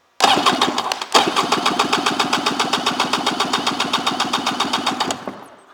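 2003 Polaris Virage 700 two-stroke twin jet ski engine cranked over by its electric starter with a compression gauge on the magneto-side cylinder, giving a cold compression test. It cranks briefly, stops about a second in, then cranks again with a steady rapid pulsing of about ten beats a second before slowing to a stop near the end.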